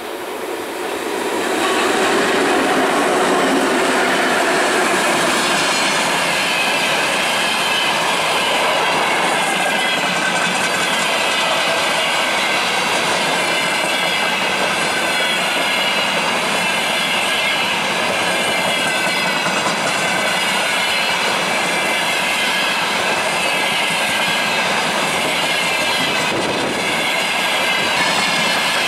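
2M62UM twin-section diesel locomotive coming up and passing close, growing louder over the first couple of seconds. It is followed by a long freight train of hopper wagons rolling steadily past, steel wheels running on the rails.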